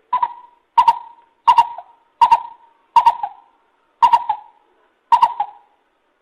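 Lesser coucal calling: a series of seven short notes on one pitch, each starting with a sharp click, spaced a little under a second apart.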